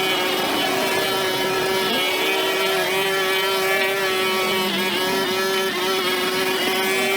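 Small two-stroke brush cutter engine running steadily at high speed, holding an even pitch.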